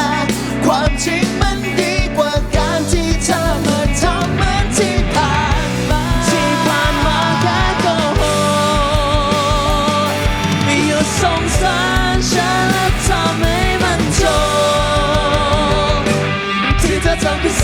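Live pop-rock band music with a steady drum beat and long held melody notes that waver in pitch.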